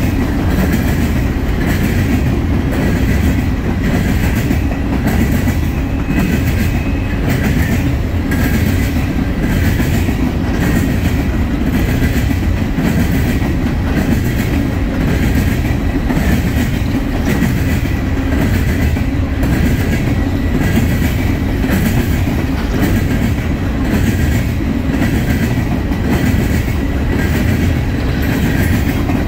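Norfolk Southern coal train's hopper cars rolling past at close range, with a double-stack intermodal train moving on the far track: a steady rumble of steel wheels on rail with a regular clickety-clack of wheelsets over rail joints. A faint high ring from the wheels runs under it.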